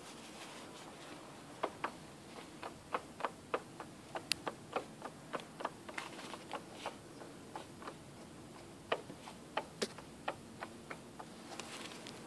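Worn drive shaft bearing on a 2009 Ford Focus II knocking: a run of sharp, irregular knocks, two to three a second, starting about a second and a half in and stopping shortly before the end.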